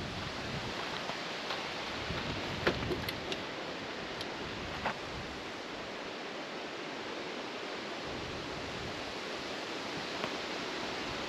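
Steady rushing wind noise, with a few faint ticks in the first few seconds.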